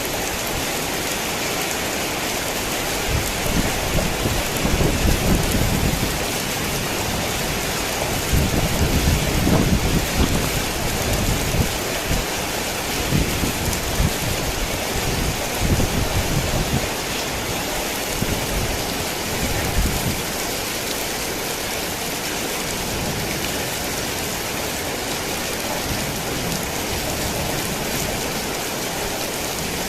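Heavy rain falling steadily, with low rolling thunder that swells and fades in several waves from a few seconds in until about two-thirds of the way through.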